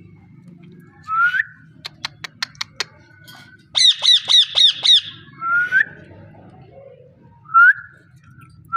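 Ringneck parakeet calling: short rising whistles, a run of sharp clicks, and about a second in the middle a rapid series of about six harsh squawks.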